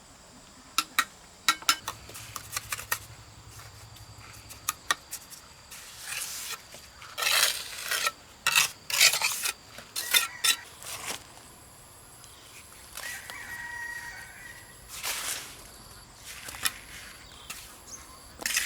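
Hand building work: a run of sharp taps and clinks and several short scraping rushes, over steady insect chirping.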